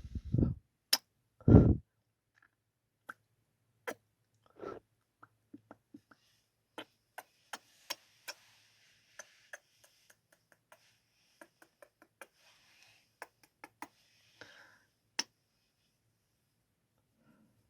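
Close-miked ASMR kissing and lip-smack mouth sounds: two louder low puffs in the first two seconds, then a scattered run of short, sharp, wet clicks, one or two a second, ending around 15 seconds in.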